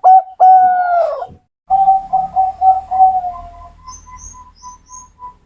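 Zebra dove (perkutut) cooing: a few short clipped notes, then a long drawn note that falls away at its end. After a brief pause comes a rapid run of notes that tapers into softer, slightly higher short notes, about four a second, with a few faint high chirps near the end.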